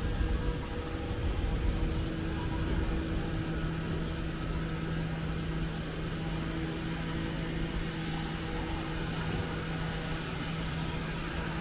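Steady city street noise: passing traffic under a constant mechanical hum.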